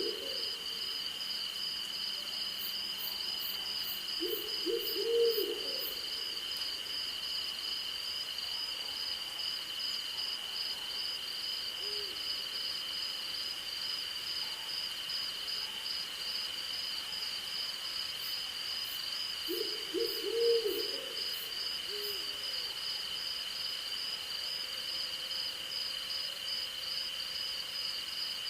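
Crickets and other night insects calling without a break: a steady high ring with a faster pulsing trill above it. Over this an owl hoots a quick run of three or four low notes about five seconds in, and again about twenty seconds in.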